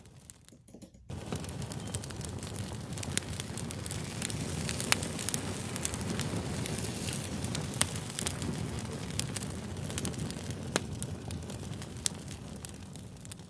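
Fire crackling: a steady hiss and low rumble with sharp pops scattered throughout. The sound almost drops out for the first second, comes back abruptly, and fades toward the end.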